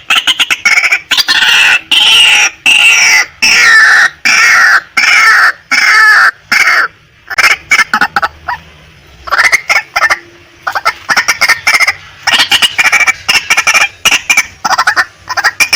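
Female white-breasted waterhen calling: a loud, rapid series of repeated notes that slide down in pitch over the first several seconds, a pause of about two seconds just past the middle, then another rapid series.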